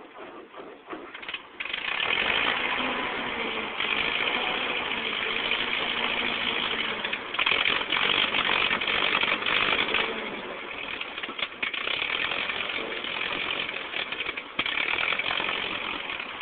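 1949 Ford 8N tractor's four-cylinder flathead engine coming to life about a second and a half in and running, loud and uneven, just after its ignition wiring was repaired.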